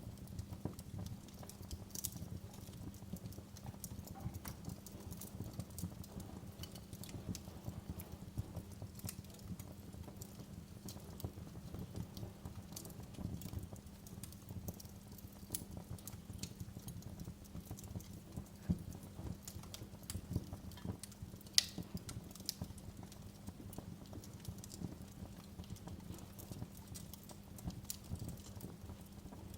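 Wood fire crackling in a fireplace: a steady low rumble of flames with scattered sharp crackles and pops, two of them louder, a little past the middle.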